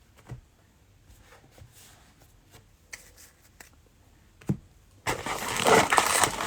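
Trading cards handled with faint clicks and taps, then about five seconds in a sudden loud crinkling rustle of a cellophane card pack's wrapper.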